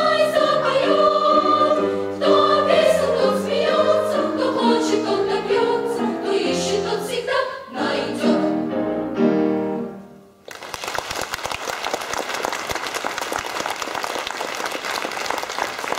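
A female solo voice with accompaniment singing the closing phrases of a song, the music ending about ten seconds in. Then audience applause.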